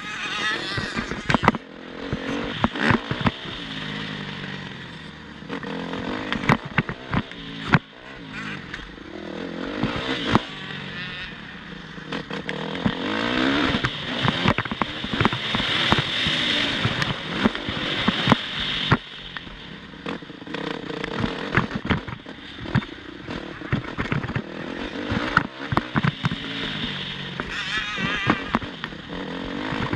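Motocross motorcycle engines revving up and down through the gears, with many sharp cracks and knocks mixed in.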